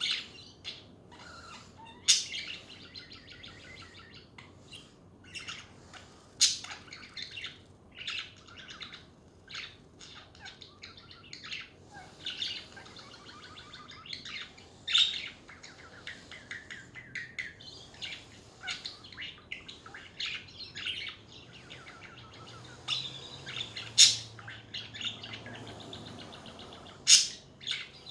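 Pet budgerigars (budgies) chattering and warbling without a break, with a few sharp, loud chirps or calls standing out.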